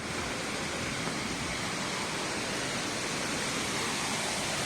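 Waterfall: a steady rush of falling water in full monsoon flow.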